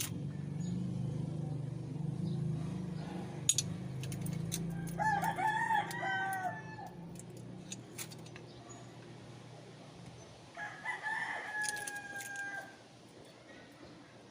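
A rooster crowing twice: once about five seconds in and again near the end, the second crow ending in a long held note. Under it runs a low steady hum that dies away midway, and a few sharp clicks.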